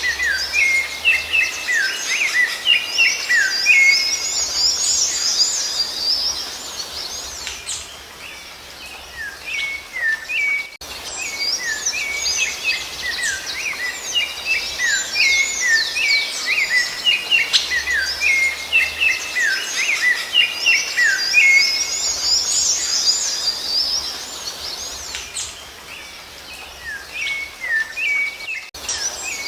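Rufous-bellied thrush (sabiá-laranjeira) singing: runs of short, quick whistled notes and rising-and-falling glides, in two stretches of about eight seconds each separated by quieter gaps. Under it is a faint steady hiss of outdoor background noise.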